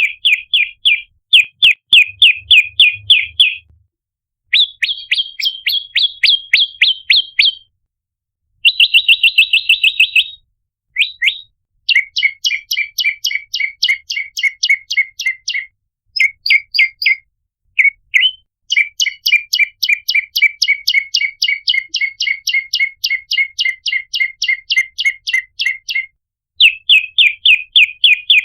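Prenjak lumut (a prinia) calling in fast, sharp repeated chirps, about five or six a second. The chirps come in bursts of a few seconds, broken by short pauses, and change in pitch and pace from burst to burst. It is a lure call of the kind used to draw in other prinias.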